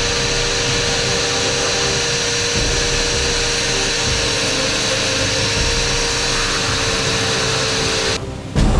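Electric hand planer motor running steadily at full speed with a constant high whine, cutting off about eight seconds in.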